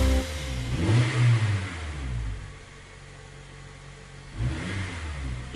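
Bus engine sound effect revving up and running on at a low steady hum, with a second shorter rev near the end.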